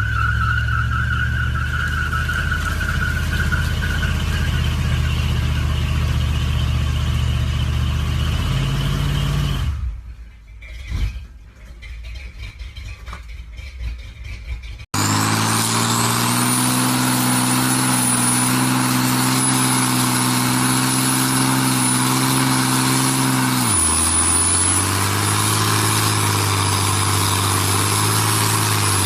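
Truck engines running in two separate clips. The first engine runs steadily, then goes quiet and uneven. After an abrupt cut, a second engine runs with a high thin whine above it, and its pitch drops suddenly about two-thirds of the way through.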